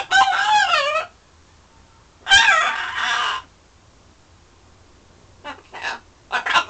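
Blue-and-gold macaw calling: two loud, wavering calls about a second long each, then a few short, softer sounds near the end.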